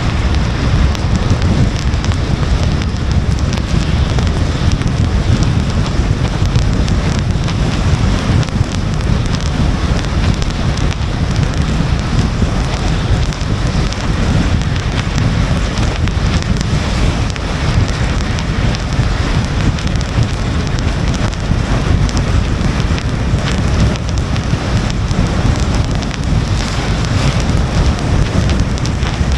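Rain falling on the windshield of a moving car, over a steady low rumble of tyre and wind noise.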